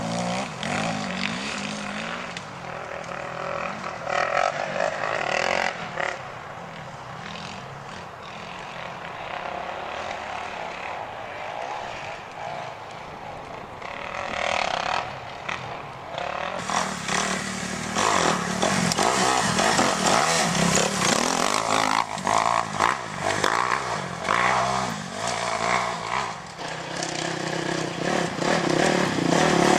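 Off-road motorcycle engines running and revving as the bikes ride by. The sound rises and falls and gets louder about halfway through.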